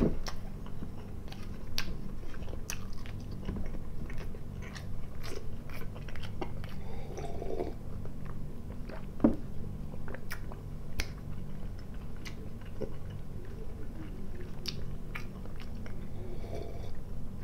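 Close-up chewing of dry sausage and cheese, with many small wet mouth clicks, and sips of tea from a glass mug. A steady low hum runs underneath.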